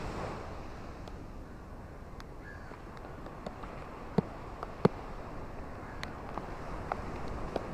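Rain and surf on a beach: a steady low wash with scattered sharp ticks of drops, two of them much louder a little past the middle.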